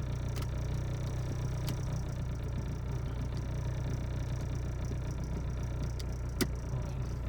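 Car engine idling, a steady low hum heard from inside the car, with a few light clicks as the fan's parts are handled and fitted.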